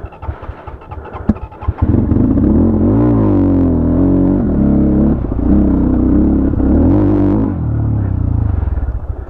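A 250 cc motorcycle engine revs hard from about two seconds in, its pitch rising and falling as it works, then drops away at the end. Before that come a few scattered knocks and clatter.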